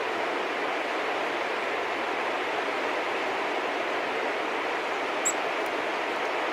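Steady, even rushing background noise of an outdoor winter scene, with one brief high bird chirp about five seconds in.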